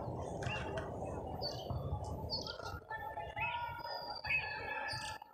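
Several small birds chirping and calling, with short high chirps and whistles scattered through, over a steady low outdoor background rumble.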